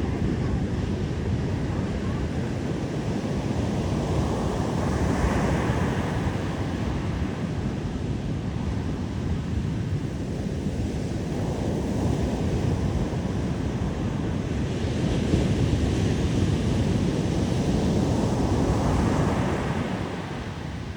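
Ocean waves surging onto a beach, rising and easing in slow swells several seconds apart, with wind buffeting the microphone.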